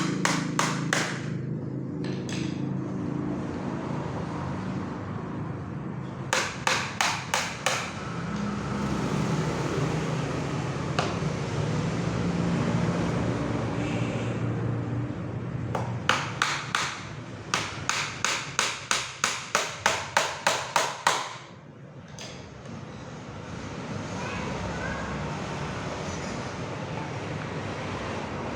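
Hammer driving nails into a wooden packing crate in quick runs of strikes, about three to four a second: a short run about six seconds in and a long run of a dozen or so strikes between about sixteen and twenty-one seconds, over a steady low rumble.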